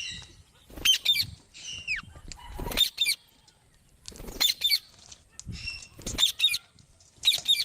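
Green parrots giving short, shrill squawking calls, about six quick bursts with brief pauses between them.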